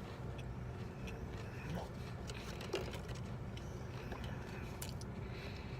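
Someone quietly chewing a bite of biscuit dipped in ranch sauce: a few faint clicks over a steady low hum.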